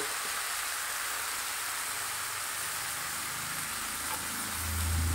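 Soaked rice sizzling in hot ghee in a frying pan, a steady soft hiss. A low hum comes in near the end.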